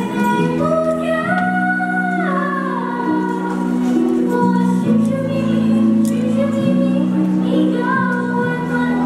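A youth choir singing in unison over a steady instrumental accompaniment with sustained low notes.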